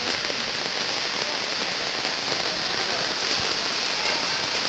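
Heavy rain pouring steadily during a strong windstorm, an even hiss with no breaks.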